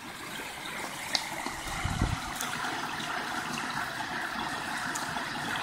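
Steady rushing of running water, slowly growing louder, with a dull low thump about two seconds in.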